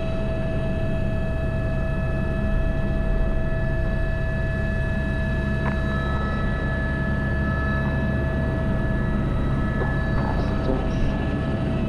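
Airbus H125 helicopter in flight, heard from the cockpit: the steady whine of its Arriel turboshaft and gearbox over the low, even drone of the rotor.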